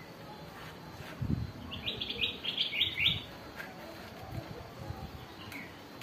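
A small bird chirps a quick run of about five short, high, falling notes about two seconds in. A few low thumps sound around it.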